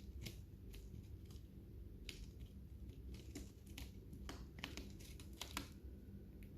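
Lovebirds cracking and chewing seeds with their beaks: faint, irregular sharp clicks and crunches that come faster toward the end, then stop.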